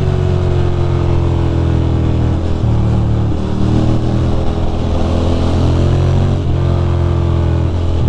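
2006 Ducati Monster 620's air-cooled L-twin engine running on the move, its note dropping and rising several times as the throttle and gears change.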